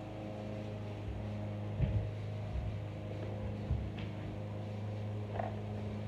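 Hoover Soft and Light upright vacuum's 7-amp motor running with a steady hum, with a few light knocks and bumps from the machine being handled.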